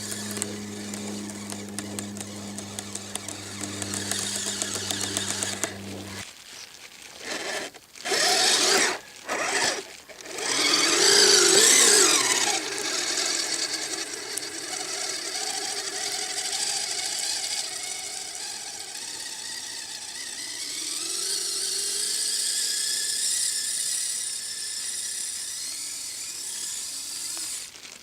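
Electric drive motors of a Kyosho Blizzard SR radio-controlled snow cat whining, with a steady low hum that stops about six seconds in, then several short loud bursts of whine, then a quieter whine that rises and falls in pitch.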